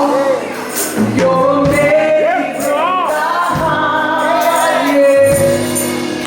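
Gospel praise singing: a lead voice holding and bending long notes with vibrato over backing singers and instrumental accompaniment.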